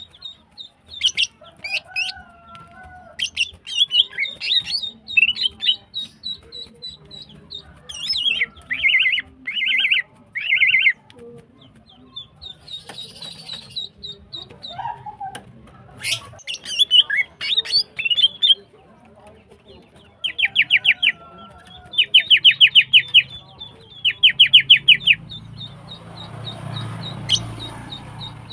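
Female green leafbird (cucak ijo) calling busily: a string of chirps and short whistles, broken by several fast rattling trills. It is a female in breeding condition calling for a male, as the uploader presents it.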